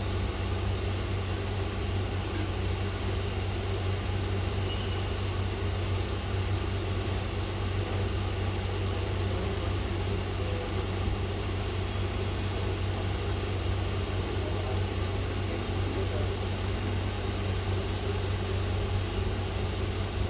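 Steady low electrical hum with an even fan-like rush, unchanging throughout.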